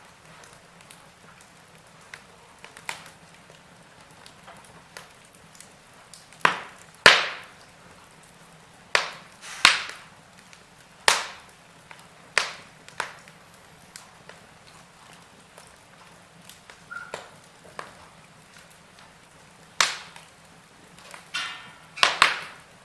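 Wood fire burning in a fireplace, crackling with irregular sharp pops and snaps over a faint steady background. The loudest snaps come about seven and ten seconds in, with a quick cluster of pops near the end.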